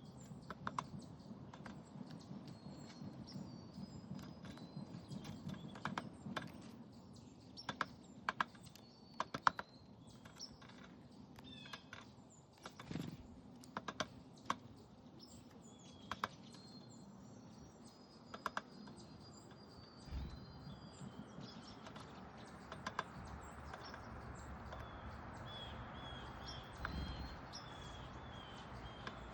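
Small backyard birds at a seed feeder: irregular sharp clicks and taps of bills and feet on the feeder, with short high chirps and a quick run of chirps near the end.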